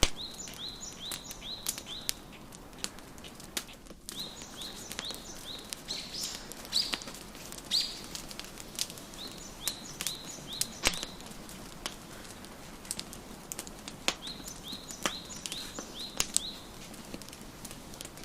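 A wood fire crackling with sharp, irregular pops, while a songbird sings in short runs of five or so quickly repeated high notes, about five runs in all.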